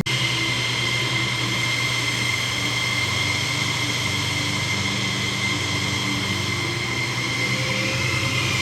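F-16 Fighting Falcon jet engine noise, steady, with a high whine over a low hum.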